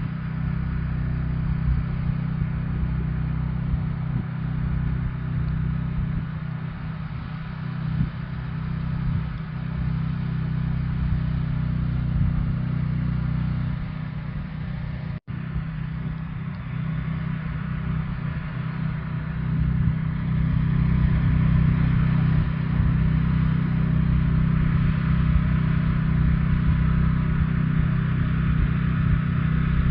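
An engine running steadily with a low, even hum. It cuts out for an instant about halfway through and gets somewhat louder in the last third.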